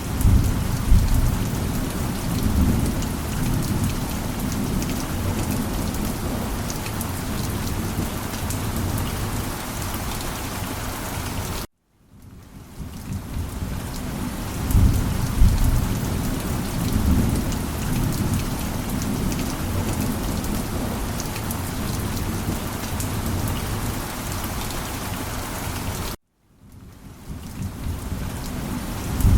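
Steady heavy rain with low rolling thunder, which swells about a second in and again about fifteen seconds in. The sound cuts out abruptly twice, about twelve seconds in and near the end, then fades back up: a short rain-and-thunder loop restarting.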